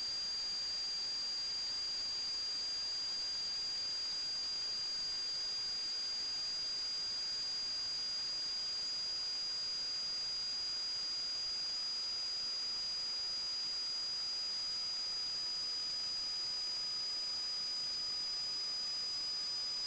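A steady high-pitched electronic whine over constant hiss. Two close high tones hold level, and a fainter lower tone slowly falls in pitch.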